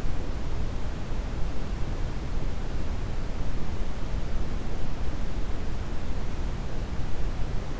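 Steady brown noise: a deep, even rushing hiss with most of its weight in the low end, unchanging.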